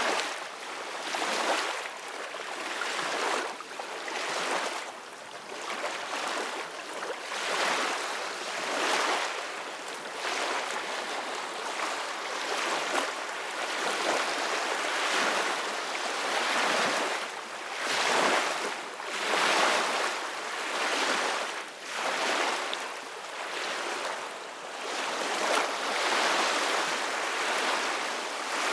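Ocean waves: a steady rushing hiss of surf that swells and eases every second or two.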